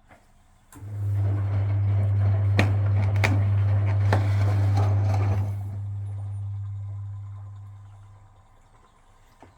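Frigidaire Super Deluxe Automatic 50 front-loading washing machine's induction motor starts about a second in and tumbles the drum for about five seconds, with wet laundry churning and clunking over a steady motor hum. The motor then switches off and the hum slowly dies away as the drum coasts to a stop.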